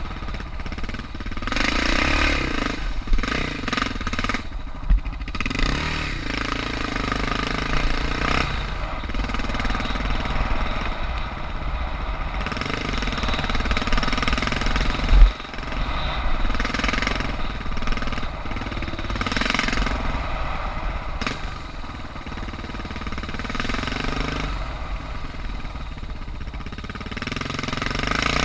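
Suzuki DR650's single-cylinder four-stroke engine running under way on a dirt trail, the revs rising and falling again and again. A few knocks come through, with one loud sharp thump about halfway through.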